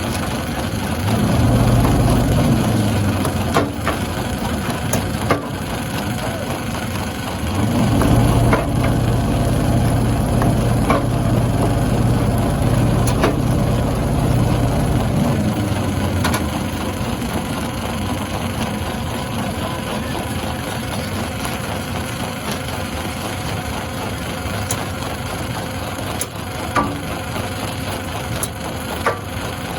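Stone crusher breaking rock: a continuous grinding, crunching noise with sharp cracks of stone scattered throughout. A low machine drone swells up about a second in and again from about eight to fifteen seconds.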